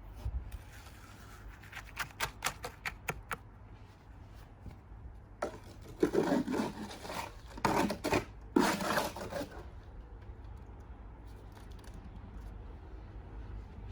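Trowel scraping and working cement: a few light clicks, then several seconds of loud gritty scraping in the middle.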